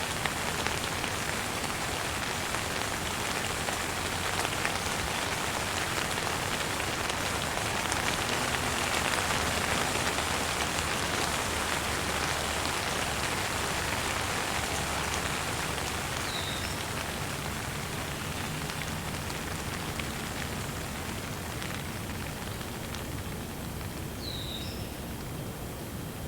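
Steady rain falling, easing slightly in the second half, with a bird chirping briefly twice in the latter part.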